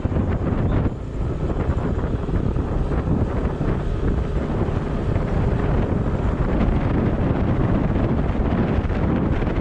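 Steady wind buffeting on the microphone of a moving vehicle, mixed with its road and engine noise, dipping briefly about a second in.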